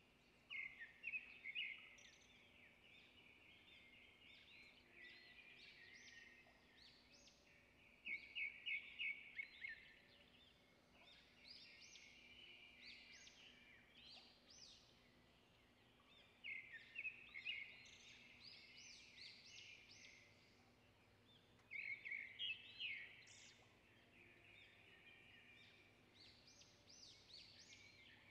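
Faint bird chirping: short bursts of rapid high chirps, repeating every few seconds, over a faint steady hum.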